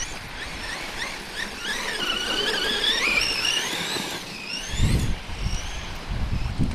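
Electric motor of a 1/6-scale Redcat Shredder RC truck running on 6S, a high whine whose pitch climbs and dips with the throttle, with a long rising run about two to four seconds in. Wind buffets the microphone from about five seconds in.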